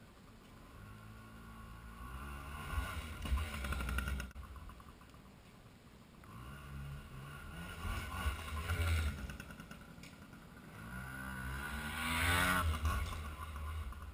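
Yamaha PW80 pit bike's small two-stroke single-cylinder engine revving as the bike passes by three times, each pass swelling up and fading away again.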